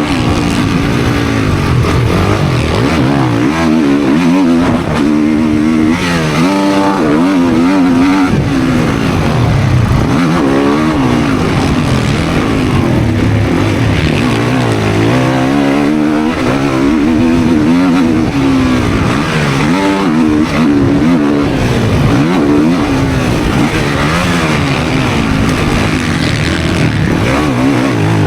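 Dirt bike engine being ridden hard, its pitch climbing and dropping again and again every second or two as the throttle is opened and shut.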